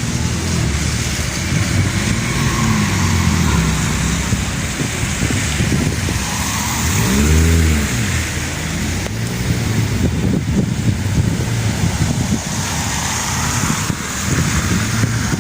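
Car engine and road noise from a moving car, the engine note rising and falling several times, most strongly about halfway through.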